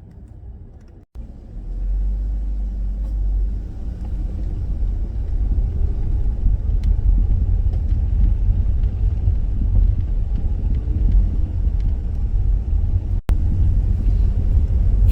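Dodge Grand Caravan minivan driving, heard from inside the cabin as a steady low rumble of road and engine noise. It starts after a brief break about a second in.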